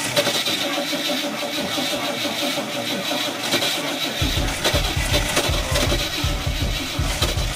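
A 1967 Ford Thunderbird's V8 engine being started: cranking, then catching about four seconds in and running with a strong low pulsing beat.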